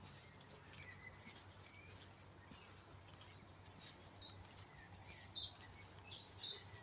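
Wild songbirds singing in woodland: faint scattered chirps, then from about four seconds in one bird repeating a short, high, slightly falling note about twice a second.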